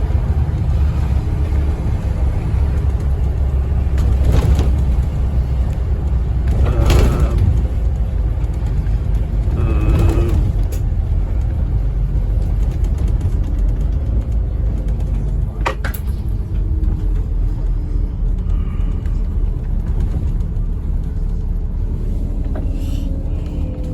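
Inside a 2009 Scania N270UD OmniCity double-decker bus under way: a steady low rumble of the diesel engine and road noise, with a few knocks and rattles from the body.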